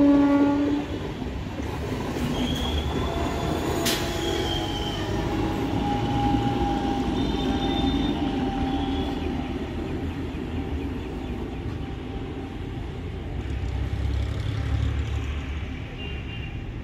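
Passenger train coaches running past on the rails with a steady rumble and a few faint high wheel squeals. A train horn blast cuts off about a second in.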